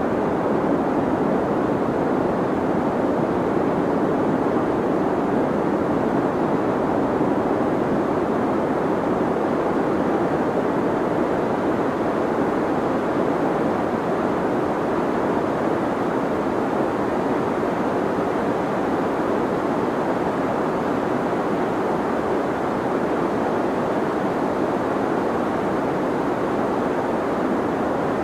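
Deep white noise for sleep: a steady, even rushing hiss, dull and deep with little treble, that never changes.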